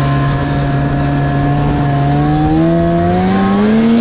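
Snowmobile engine running at a steady speed, then rising in pitch over the second half as the throttle opens and the machine speeds up.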